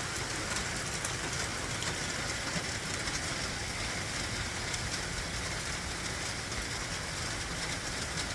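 Steady rain falling, an even hiss with faint ticks of individual drops throughout.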